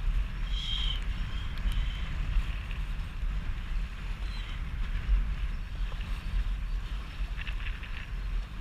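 Wind buffeting a GoPro microphone on a jet ski on open water: a low, uneven rumble with a steady hiss above it.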